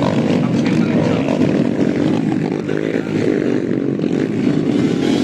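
Several motocross motorcycle engines running and revving together, rising and falling in pitch.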